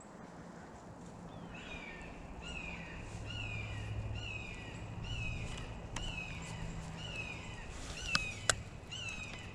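A bird calling over and over, short high notes that fall in pitch, about one and a half a second, starting after a second or so. Two sharp clicks near the end.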